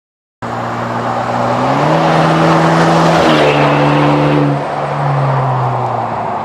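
GWM Tank 300 SUV running through a custom A Performance exhaust system, cutting in about half a second in: a steady, deep exhaust drone that climbs in revs around two seconds in, then holds with small dips in pitch near three and four-and-a-half seconds in.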